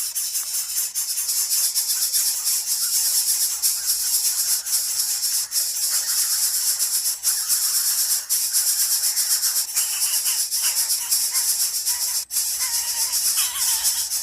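Steady, dense high-pitched insect chorus with a shaker-like rattling texture. A few faint short chirps join near the end.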